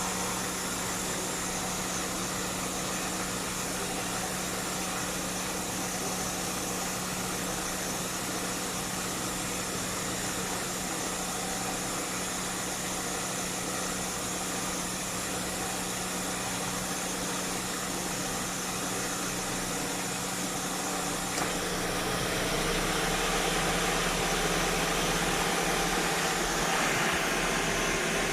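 Car engine idling steadily. About twenty seconds in it grows slightly louder and a deeper low hum joins in.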